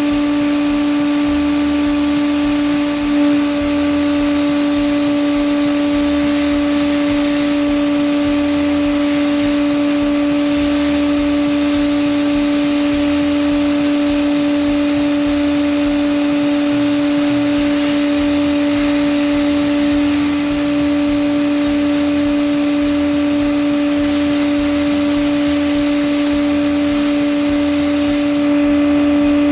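Bead blasting cabinet running: a steady hiss of the blast air over a constant motor hum, unbroken throughout.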